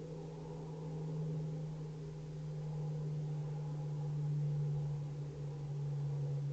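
A steady low-pitched hum over faint background hiss, swelling and easing a little in loudness.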